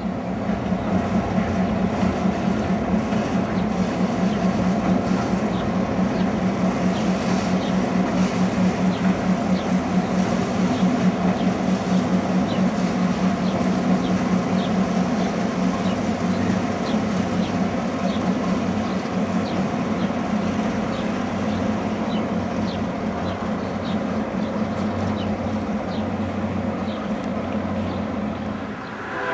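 Excursion train crossing a steel truss bridge: a steady, pulsing drone from an F7 diesel locomotive's EMD 567 engine, with wheels clicking over the rail joints in an even rhythm.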